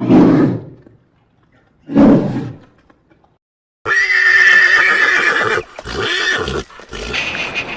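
Horse neighing: two short low sounds about two seconds apart, then a long neigh starting about four seconds in, followed by shorter calls.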